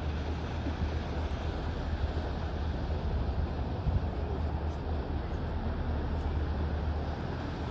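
Ferry's diesel engine running with a steady low drone, heard on board, under an even rushing noise.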